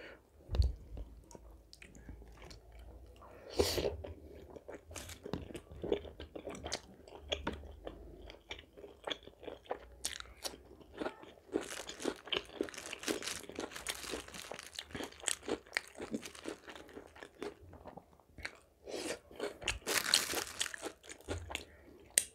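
Close-miked eating: a person biting and chewing crunchy food, with many short crisp crunches, denser through the middle and again near the end.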